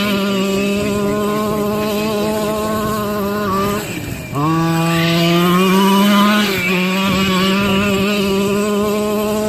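Small two-stroke gasoline engine of a 1/5 scale RC monster truck running at steady high revs. It drops off sharply about four seconds in as the throttle is released, then climbs back up and holds steady again.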